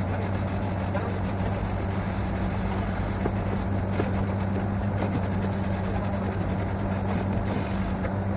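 Borewell drilling rig's engine running steadily: a constant low hum under an even, noisy rush.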